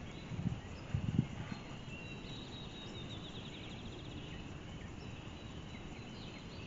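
Songbirds singing, with a high rapid trill about two to four seconds in, over a steady outdoor hiss; two brief low thumps sound within the first second and a half.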